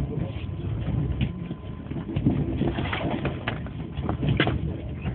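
Mumbai suburban local train running at speed, heard from inside the coach: a steady rumble with irregular rattling clicks and knocks.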